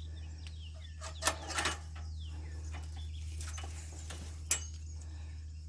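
Garden gate being unlatched and swung open: a quick run of clicks and rattles about a second in and another sharp click near the end, over a steady low hum.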